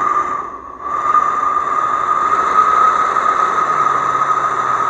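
Loud, steady hiss of a pressurised gas jet with a whistling tone in it, dropping away briefly about half a second in and then coming back. It comes from the live-steam locomotive's gas jet and burner plumbing, just cleared of a blockage.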